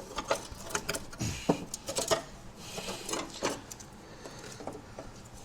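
Hands pulling old wiring out of a car's engine bay: irregular clicks, rattles and rustling of wires and connectors, busiest in the first few seconds, with a brief squeak about a second in.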